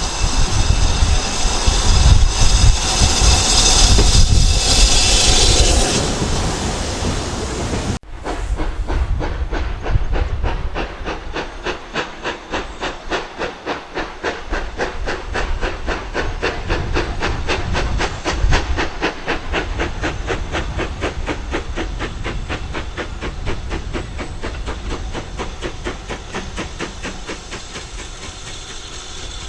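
Steam locomotive: loud steam hissing, then after an abrupt break a fast, even beat of the train running that slowly fades away.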